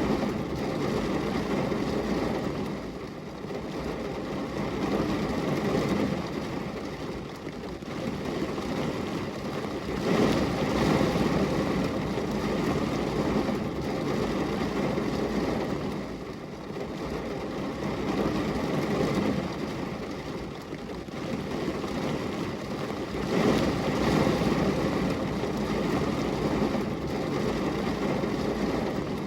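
Steady rain falling on a glass window: a dense, even wash of noise, heaviest in the low range, that swells and eases every few seconds.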